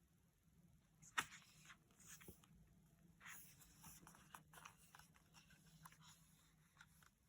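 Faint scattered clicks and rustles in a small room, the sharpest click about a second in.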